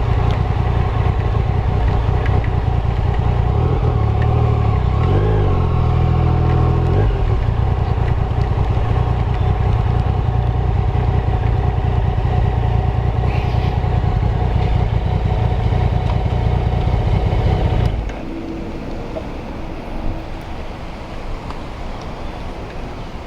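Yamaha Tracer motorcycle engine running at low speed, steady apart from a brief wavering change in pitch about five seconds in. It shuts off about eighteen seconds in, leaving the softer steady hiss of rain.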